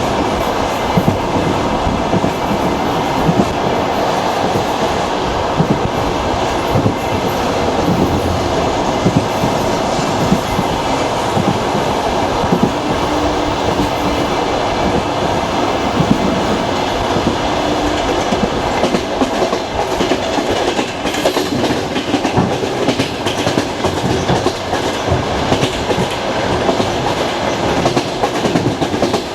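Passenger train carriage running on the rails: a steady rumble of wheels with frequent clicks and knocks as they pass over rail joints.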